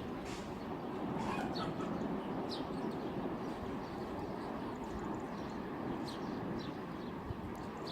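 Birds giving short, high, downward chirps every second or so over a steady hiss of rain.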